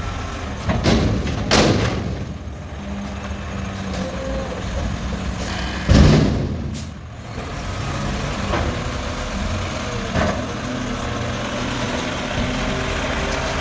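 Mack McNeilus front-loader garbage truck running, with sharp metal knocks in the first two seconds and one loud bang about six seconds in.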